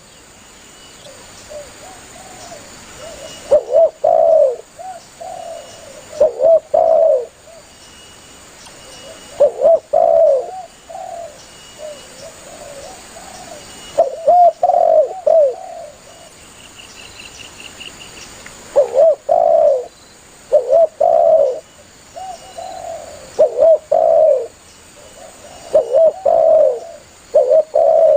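Spotted dove (tekukur) calling: repeated loud cooing phrases, each a short run of low coos, coming every two to five seconds. Faint high chirps from other small birds sit behind it, with a brief high trill a little past the middle.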